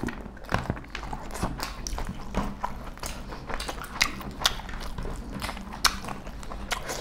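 Two people chewing beef curry and rice eaten by hand, with irregular wet mouth clicks and smacks.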